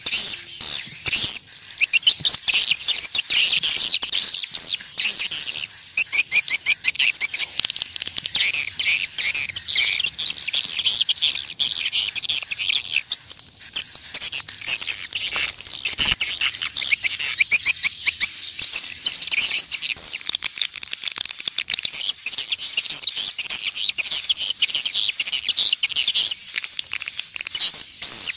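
Swiftlets calling: a dense, unbroken chorus of rapid high chirps and twitters.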